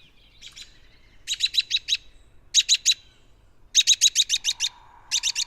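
An American robin giving bursts of rapid, sharp, repeated call notes, about ten a second, in four separate runs.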